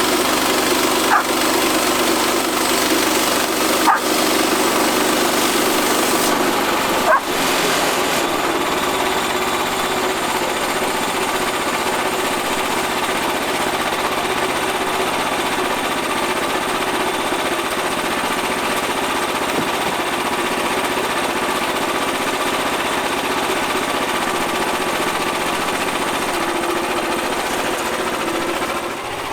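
Portable band sawmill's gas engine running under load while a brand-new band blade cuts steadily through a large black walnut log. Three short sharp sounds stand out in the first seven seconds, and the engine note shifts at about the same point.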